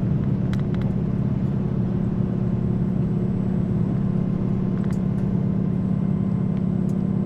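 Steady low running rumble inside a KiHa 281 series diesel limited express train travelling at speed: engine and wheel-on-rail noise, with a few faint clicks.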